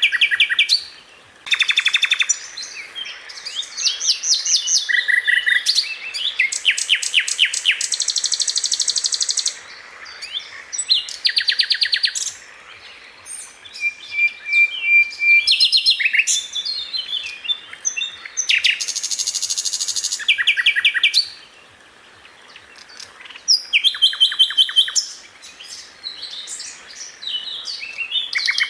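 Sikatan londo flycatcher singing in fast bursts of rapid, rattling high-pitched trills, each phrase lasting a second or two with short pauses between.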